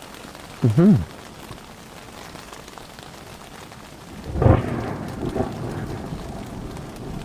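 Steady rain, with a loud clap of thunder about four seconds in that rolls on as a rumble. Under a second in there is a short, loud, pitched sound that bends up and down.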